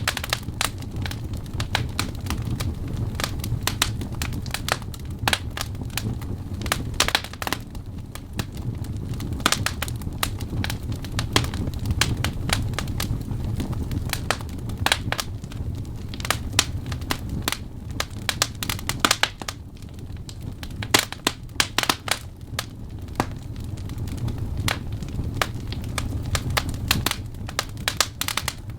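Wood fire burning: logs crackling and popping in an irregular stream of sharp snaps over a steady low rumble of the flames.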